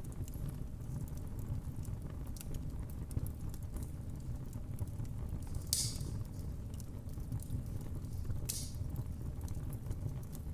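Wood fire crackling in a fireplace: a steady low rumble of the flames with scattered small pops, and two louder snaps about six and eight and a half seconds in.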